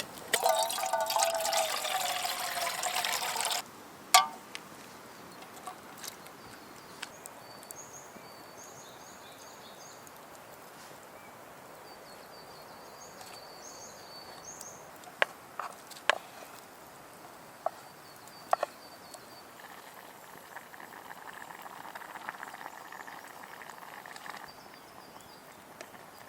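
Liquid being poured into a vessel for about three and a half seconds, stopping sharply, followed by a single knock. Afterwards small birds chirp faintly and there are a few sharp clicks.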